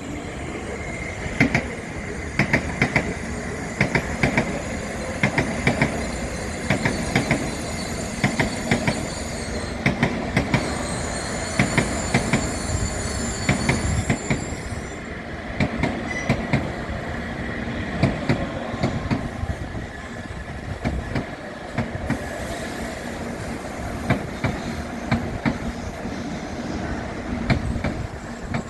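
Tokaido Shinkansen train rolling through the station at moderate speed, its wheels clacking in regular pairs about every second or so over a steady rumble. A high hiss fades about halfway through.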